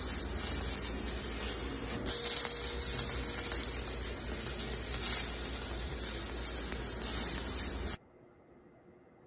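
Electric arc welding: a steady crackling, sizzling hiss from the arc, which stops abruptly about eight seconds in as the arc is broken.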